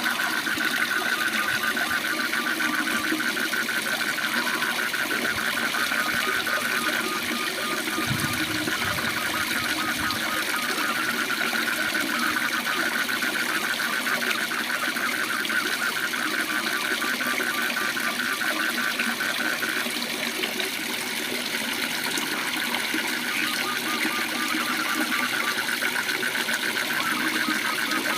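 Steady rush of a waterfall with a frog giving a fast, evenly pulsed trill over it. The trill stops about two-thirds of the way through and starts again near the end.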